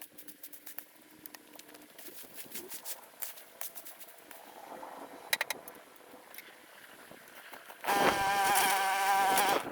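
Scattered light clicks and taps, then a small motor buzzing loudly for about two seconds near the end. The audio is sped up, which raises the pitch.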